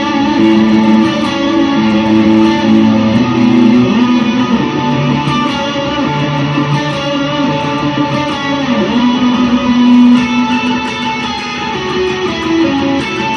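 Electric guitar played through an Electro-Harmonix POG octave pedal, sustained notes and chords with octave voices added, heard from monitor speakers in the room.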